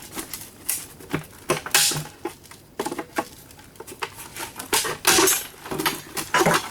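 Housing of an old Rival electric can opener being forced open without the proper screwdriver bits: irregular clicks, knocks and clattering, with the loudest cracks about five seconds in and again near the end.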